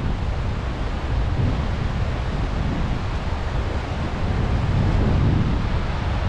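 Sea waves washing on the shore under steady wind, with wind buffeting the microphone in a low, unsteady rumble.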